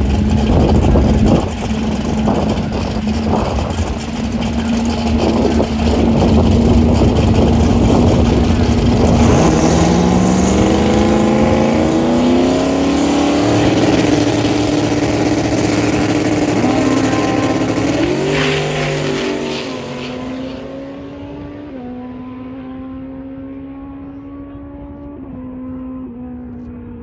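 Turbocharged Chevrolet Nova drag car engine, loud and rough at first. It then accelerates with a rising pitch and steps through several gear changes as it pulls away, fading with distance over the last several seconds.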